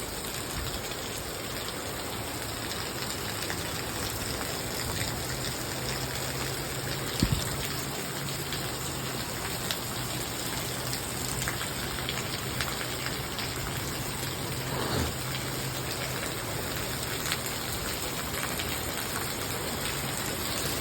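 Rain falling steadily, an even hiss with a single knock about seven seconds in. A faint low hum runs through the middle of it.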